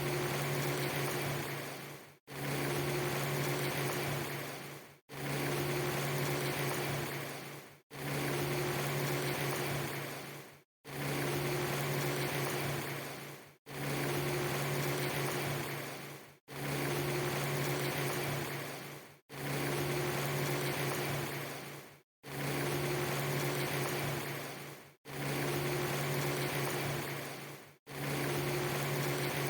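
A rain ambience recording with a steady hiss and a low steady hum, looped from a clip under three seconds long. Each repeat fades and cuts out to silence for a split second before restarting, about ten times.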